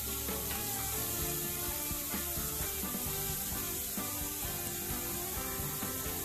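Chopped onions sizzling in oil in a nonstick frying pan as a spatula stirs them, with background music.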